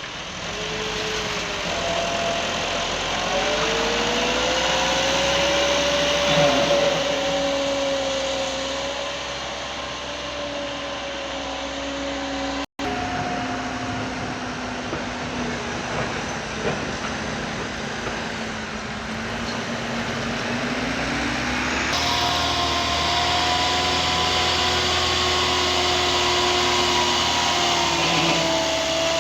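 Heavy machinery engine running under load, its pitch rising and falling, with a brief dropout about 13 seconds in and an abrupt change in the sound about 22 seconds in.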